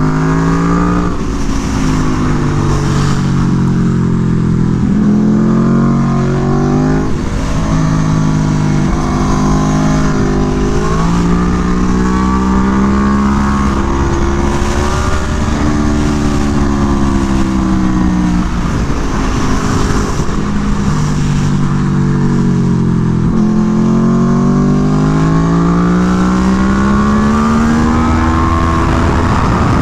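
Aprilia Tuono V4 1100's V4 engine through an SC Project exhaust, heard on board while lapping a track. The revs climb and fall again and again as it accelerates and slows for corners, over a steady rush of wind.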